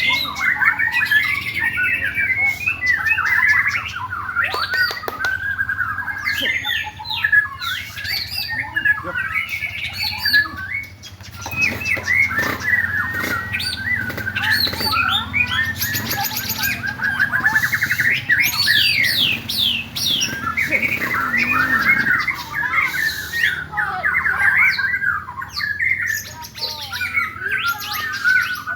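Several white-rumped shamas (murai batu) singing at once, a dense overlapping chorus of loud whistles, fast trills and chattering phrases.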